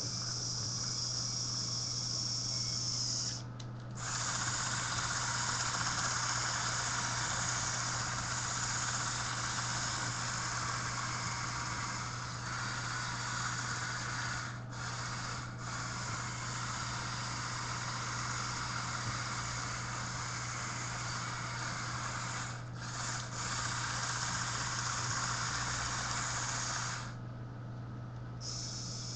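Lego Technic 8275 motorized bulldozer's electric motors and plastic gearing whirring under remote control, with a high whine. It cuts out briefly several times and restarts, over a steady low hum.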